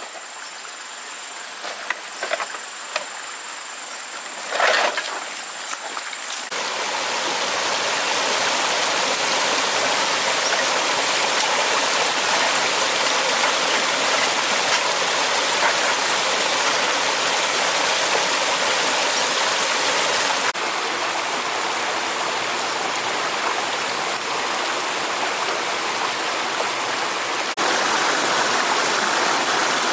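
Flowing water rushing steadily, starting about six seconds in. Before it the sound is quieter, with a thin steady high whine and a few short knocks.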